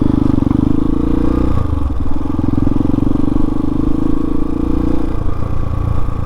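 Hawk 250 single-cylinder motorcycle engine pulling away under acceleration. The engine note climbs, dips at an upshift about a second and a half in, climbs again, and dips at a second upshift near the end.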